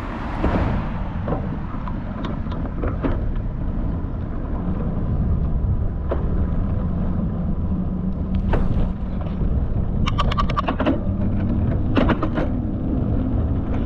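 Steady low rumble of road traffic and bicycle riding noise, with a quick run of rapid clicks about ten seconds in and a few more shortly after.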